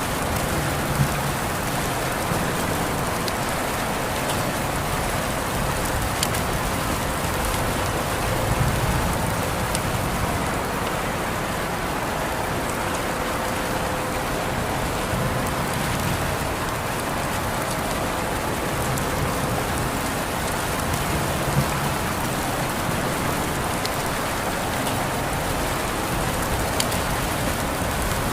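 Steady rain falling, an even hiss with scattered sharp drops ticking now and then.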